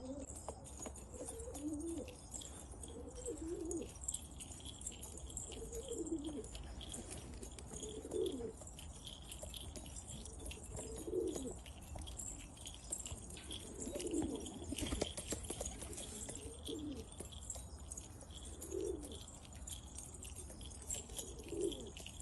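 Domestic pigeons cooing, one low coo phrase about every two seconds, with faint high-pitched chirping and ticking behind them.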